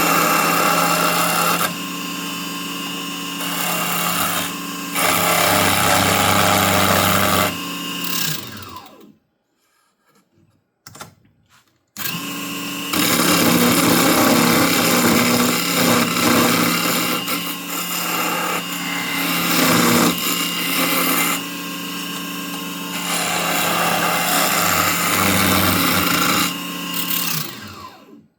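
Small benchtop wood lathe running while a turning tool cuts a spinning piece of wood, the cutting noise swelling and easing. About eight seconds in the motor is switched off and winds down, a few light knocks follow, then it starts again at about twelve seconds and runs until it winds down near the end.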